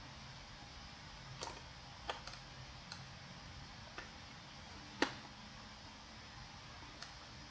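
Computer mouse clicking at an irregular pace, about seven single clicks, the loudest about five seconds in, over faint steady hiss.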